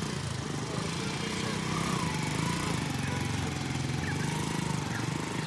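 Village ambience dominated by a steady low engine drone from a small motor running, with faint wavering tones above it.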